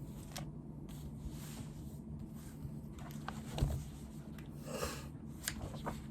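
Quiet room with a steady low hum, scattered small clicks and rustles of desk work, and a short breathy sniff about five seconds in.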